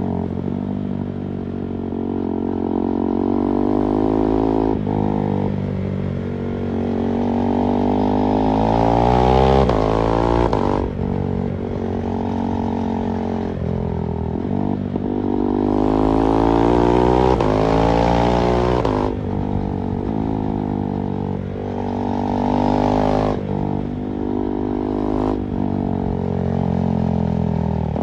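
KTM 390 Duke's single-cylinder engine accelerating through the gears. The revs climb and then drop sharply at each upshift, several times, with two long, strong pulls.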